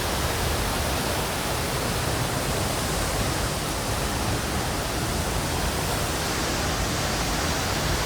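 Waterfall close by: falling water and spray making a steady, loud rushing noise that never lets up.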